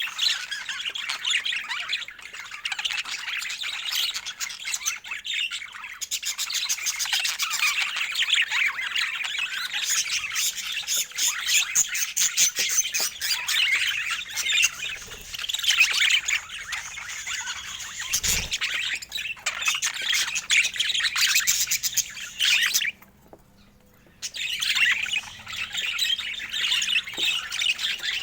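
A flock of budgerigars chattering and warbling without pause, many birds at once. The chatter breaks off for about a second a little before the end, then resumes.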